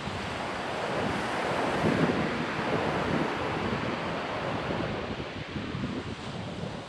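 Ocean surf: waves breaking and washing up the shore as a steady rush that swells about two seconds in and then eases off, with wind buffeting the microphone underneath.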